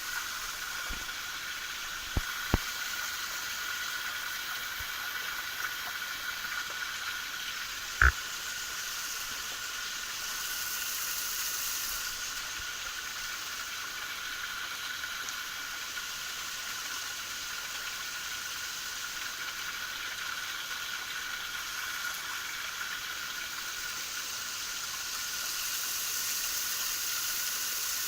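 Small waterfall's water rushing down in a steady hiss. A few sharp knocks cut through it: two light ones a couple of seconds in, and a louder one about eight seconds in.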